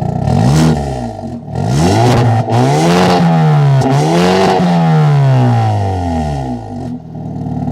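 Hyundai Avante N's turbocharged 2.0-litre four-cylinder revved through its stock exhaust in Sport mode: a short blip, then two long climbs to high revs with a brief dip between, falling back to idle near the end. A couple of sharp cracks come from the exhaust in the middle of the revving.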